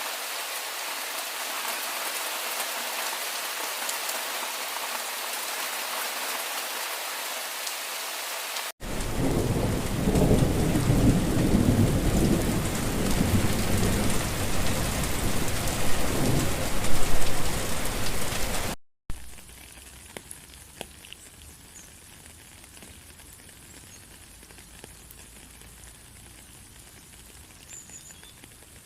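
Heavy rain pouring in a steady hiss. About nine seconds in it cuts to louder rain with thunder rumbling low for about ten seconds. Then it cuts suddenly to much lighter rain with scattered drips.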